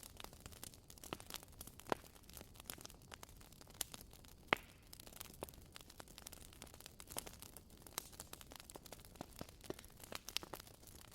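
Wood fire crackling: irregular snaps and pops over a soft hiss, with one sharper pop about four and a half seconds in.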